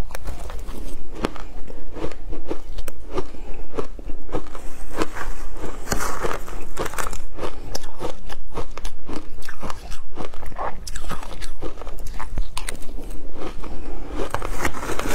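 Shaved ice being bitten and chewed: a steady run of loud, crisp crunches, several a second.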